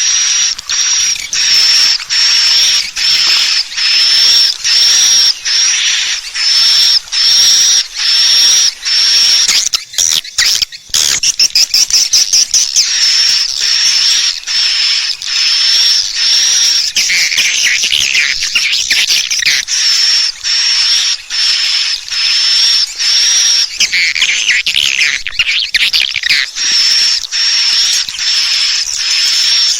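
Recorded swiftlet calls played as a lure: high-pitched chattering twitters repeated roughly every half second. There is a brief break about ten seconds in, after which the phrases come thicker and some dip lower in pitch.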